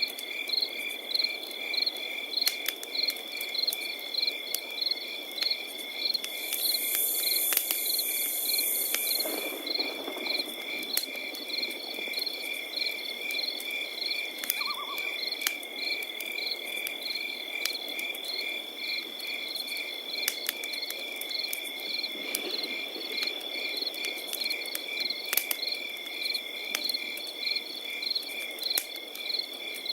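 Crickets chirping in a steady, rhythmic pulse over an unbroken high trill, with a campfire crackling beneath: a low hiss and sharp pops here and there. A brief extra high buzz comes in about six seconds in and stops about three seconds later.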